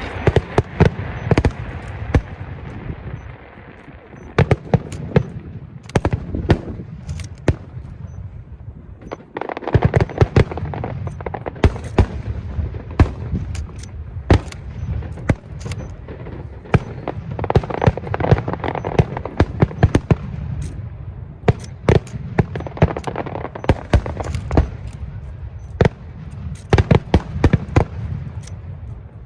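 Aerial fireworks display: a rapid, irregular series of sharp bangs and booms over continuous crackling. It thins out briefly a few seconds in and again around eight seconds, then builds back up dense after about nine and a half seconds.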